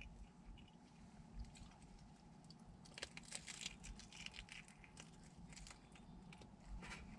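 Faint biting and chewing of a slice of bacon-wrapped deep dish pizza, with small crisp crunches, denser from about three seconds in.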